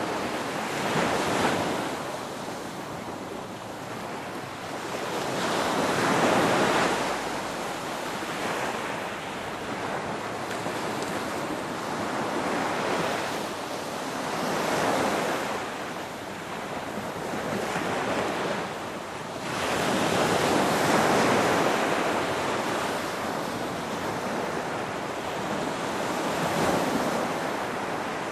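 Ocean waves breaking and washing in, a hiss that swells and fades every few seconds, with the biggest surge about two-thirds of the way in.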